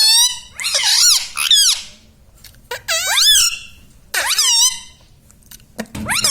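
Indian ringneck parrot vocalising in high-pitched, warbling squawks, about five short bouts with brief pauses between them.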